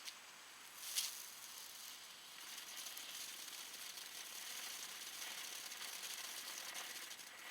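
A small ground firework fountain hissing and crackling steadily for about five seconds, after a sharp snap about a second in.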